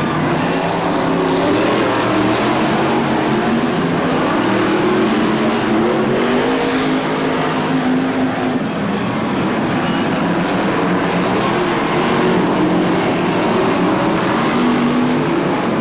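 Several BriSCA F1 stock car V8 engines running together on the track, their overlapping pitches rising and falling as the cars lap.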